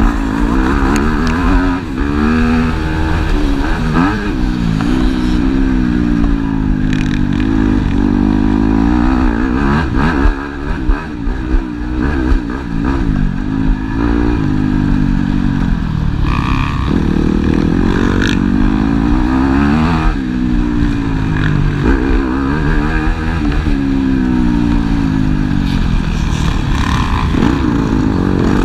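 Several motocross bikes racing, their engines revving up and falling back again and again as riders accelerate, shift and brake, with more than one bike heard at once.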